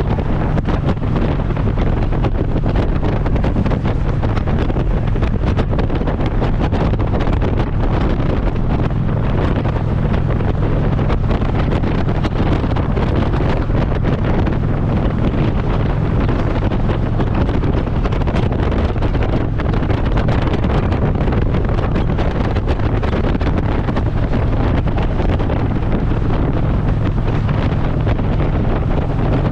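Wind rushing over the microphone of a Harley-Davidson motorcycle at road speed, with the V-twin engine's steady low drone underneath.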